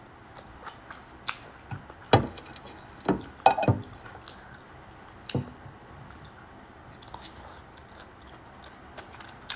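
Close-up eating sounds: chewing, with a few sharp clicks and clinks of a utensil against the bowl, the loudest about two and three and a half seconds in.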